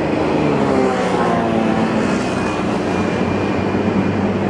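Steady, loud drone of a vehicle's engine, with a low hum and faint tones that slide slowly in pitch.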